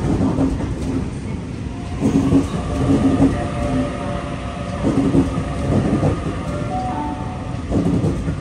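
Sydney Trains Tangara double-deck electric train pulling out of the platform. Its wheels clunk over the rail joints every second or two, under a steady rumble. The traction motor whine steps up in pitch near the end as the train gathers speed.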